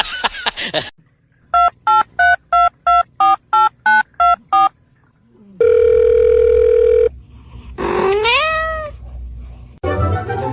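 Telephone keypad tones: ten quick two-note dialing beeps, about three a second, then a steady tone for about a second and a half. A cat then gives one rising meow.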